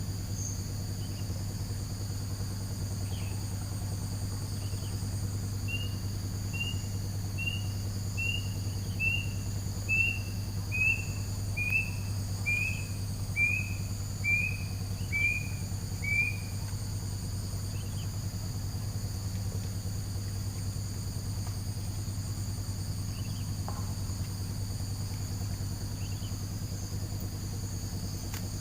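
Night insects, crickets and the like, trilling steadily over a low hum. Partway through, an unseen animal gives a series of about a dozen short calls, roughly one a second, each a little lower in pitch than the one before.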